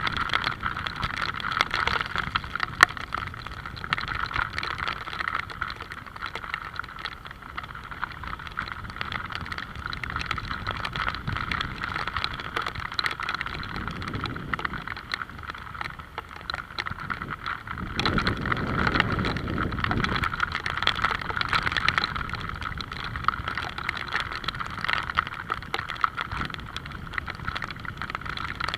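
Steady rain falling with many small drop ticks, while road vehicles pass, louder twice: around the middle and again a little later.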